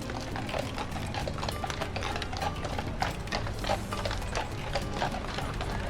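Footsteps on hard pavement, a steady walking rhythm of about two to three clacking steps a second, over a low background hum.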